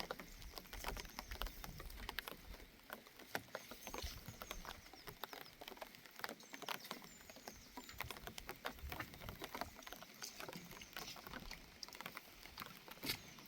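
An irregular, light patter of many small ticks and taps, with a few faint high chirps.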